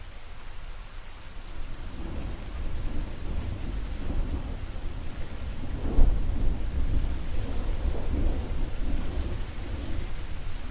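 Steady rain with rolling thunder: a low rumble builds from about two seconds in, peaks in a loud crack just past the middle, and keeps rumbling.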